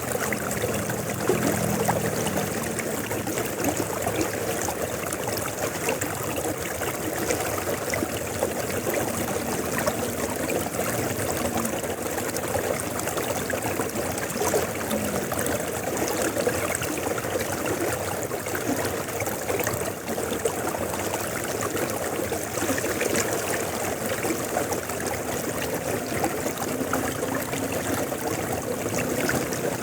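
A river flowing: a steady, unbroken rush and trickle of running water.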